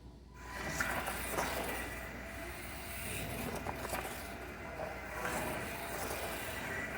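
Small-scale electric RC monster trucks racing, their motors and tyres running over the track, starting about half a second in with scattered small knocks and scrapes.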